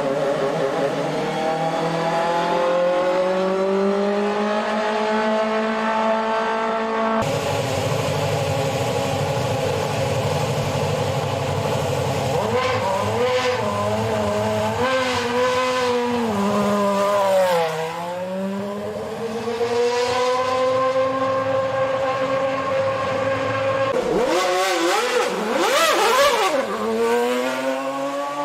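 Ferrari Formula 1 car engines running at high revs on track. The pitch climbs steadily under acceleration, then falls in steps as the car downshifts around the middle, and climbs again. The sound changes abruptly about 7 s and 24 s in, and near the end the pitch swings down and back up.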